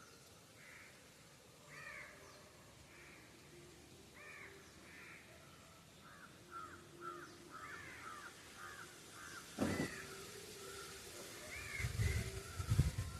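Crows cawing again and again, with a quick run of caws in the middle. A sharp knock comes about ten seconds in, and low thuds near the end.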